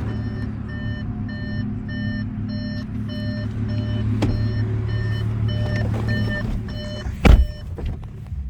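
Audi S5 door-open warning chime beeping about twice a second, warning that the key is still in the car, over a steady low hum. The beeping and hum stop about seven seconds in, followed by a single loud thump.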